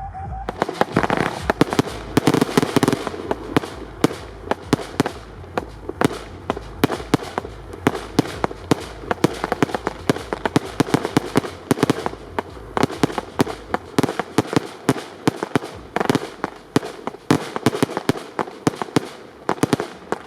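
Fireworks display firing: a rapid, dense series of sharp bangs and reports, several a second, with crackle between them, starting about half a second in.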